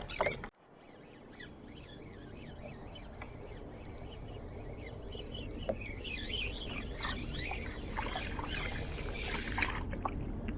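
Open-air background on the water: a steady low rumble that grows slowly louder, with many small birds chirping over it, busiest in the second half. The sound drops out abruptly about half a second in.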